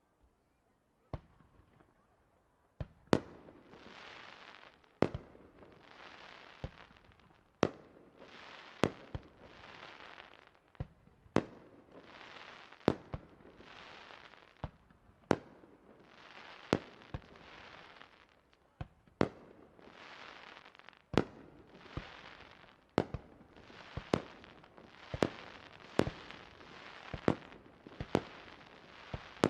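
Aerial firework shells bursting one after another, a sharp bang about every one to two seconds, with a hiss between the bangs. The bangs start sparsely and come steadily from about three seconds in.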